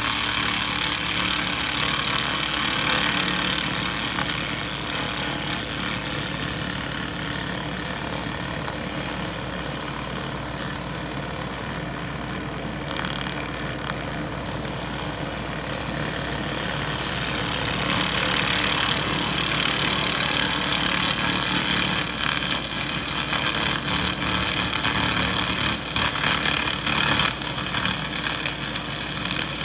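A 2000 W handheld laser rust remover working on metal: a steady hissing crackle over the machine's hum. It eases off for a few seconds mid-way and comes back louder from a little past halfway.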